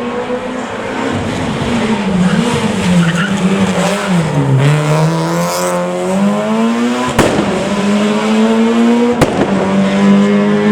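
Rally car engine at high revs, its pitch dropping as it slows about four seconds in and then climbing back to a high steady note. Two sharp cracks, about two seconds apart, break in near the end.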